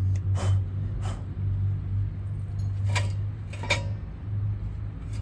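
Short metallic clinks and knocks of old brake pads and their clips being worked out of a rusted rear brake caliper, four of them, over a steady low hum.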